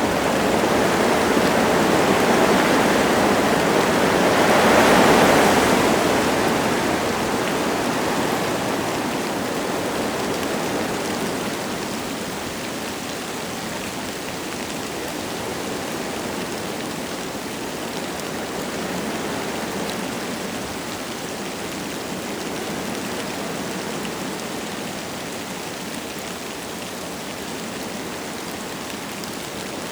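Wind gusting through forest trees with light rain falling. A gust swells to its loudest about five seconds in, then dies down to a steadier, quieter level.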